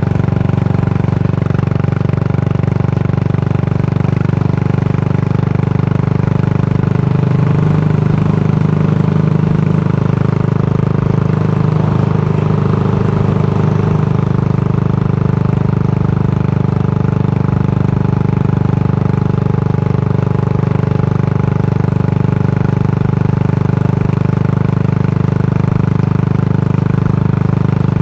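Yamaha SR400's air-cooled single-cylinder engine running steadily through a Goods Tapered Cone slip-on muffler, with a slight change in its note partway through.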